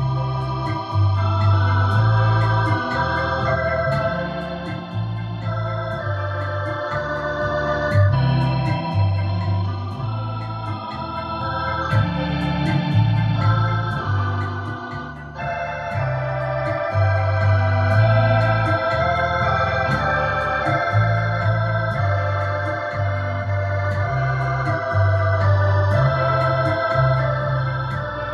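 Yamaha PSR-SX900 arranger keyboard playing organ voices over a rumba accompaniment, with a pulsing bass line and light percussion. The overall volume swells and falls back several times under the expression pedal.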